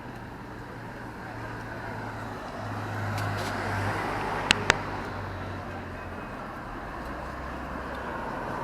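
City street traffic: a passing car's engine and tyre noise swelling about three seconds in and fading, with two sharp clicks in quick succession near the middle.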